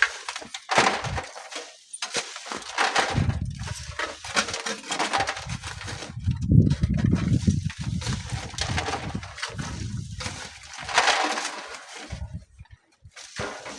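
Strong gusty wind buffeting the microphone, with a low rumble through the middle and rough, scratchy surges coming and going every second or two. It dies away briefly near the end.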